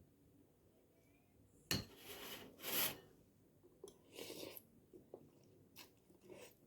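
Close-miked eating and food-handling sounds at a meal of mung bean soup, adobo and sausage: a sudden rasping, hissing burst about two seconds in lasting about a second, a shorter one a little past the middle, and a few light clicks near the end.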